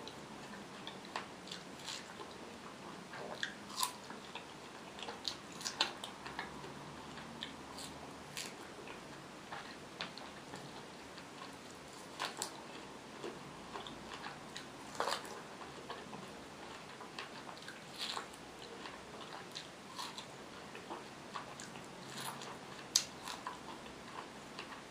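Close-miked biting and chewing of fresh strawberries: irregular soft crunches and sharp mouth clicks.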